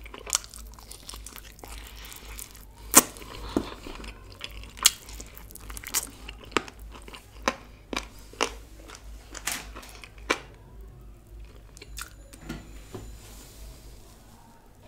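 Close-miked eating of a crispy chicken wing: sharp, irregular crunching bites and chewing, growing sparser and quieter near the end.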